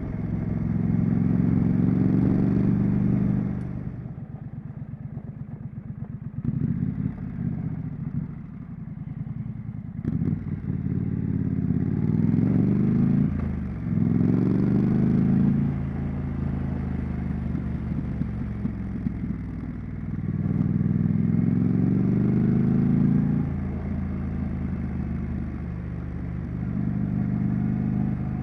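Triumph Street Scrambler's 900 cc parallel-twin exhaust while riding: the engine note rises in repeated pulls and drops suddenly at each gear change. Quieter off-throttle running comes about 4 to 10 seconds in.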